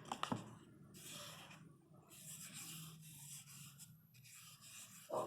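Drawing strokes on a cardboard paper roll: faint scratchy rubbing in several stretches of about a second each, with a few light clicks near the start.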